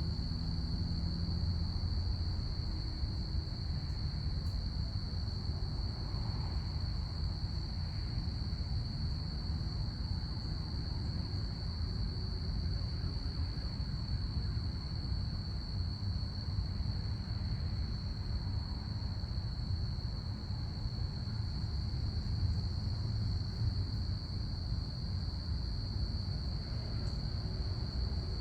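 Crickets chirping in a continuous high trill, over a low steady rumble.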